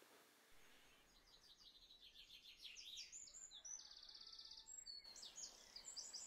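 Faint birdsong by a river: series of short high chirping notes, with a fast even trill about four seconds in.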